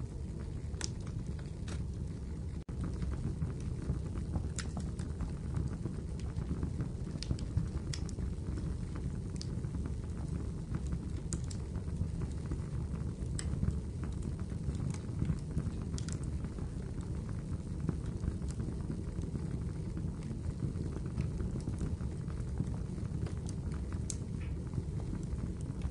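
Wood fire crackling in a fireplace: a steady low rumble with scattered, irregular sharp pops and snaps.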